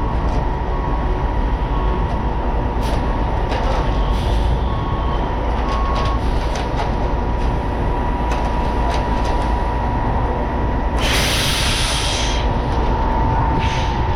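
Putzmeister 32-metre truck-mounted concrete boom pump running during a pour: a steady mechanical rumble with a constant whine, wind buffeting the microphone, and scattered clicks. About eleven seconds in comes a loud hiss lasting just over a second.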